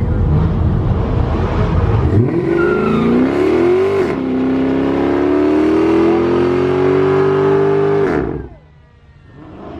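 A muscle car engine revving hard, likely for a burnout. It runs rough and loud at first, then about two seconds in the revs rise sharply, dip, and climb steadily for about four seconds before the throttle is released suddenly near the end.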